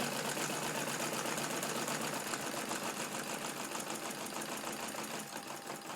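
Radial engine turning a propeller, running with a fast, even clatter as it is throttled back from higher RPM toward idle, getting a little quieter near the end.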